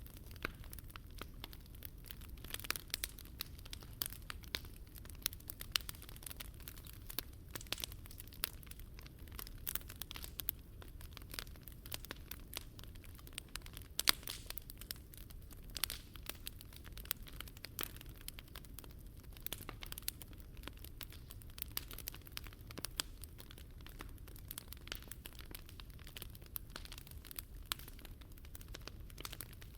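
Wood fire crackling in a Picogrill 398 fire stand: a steady low rush with frequent sharp pops and snaps, one louder pop about 14 seconds in.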